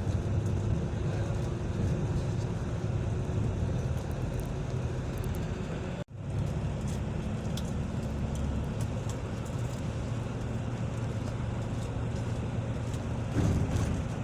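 Steady engine hum and road noise of a motor vehicle on the move. The sound drops out for an instant about six seconds in.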